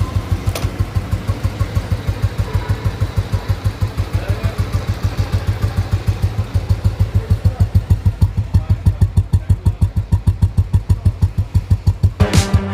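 Old Royal Enfield Bullet's single-cylinder four-stroke engine idling with an even thump, about five beats a second, growing slightly louder in the second half. Music cuts in at the very end.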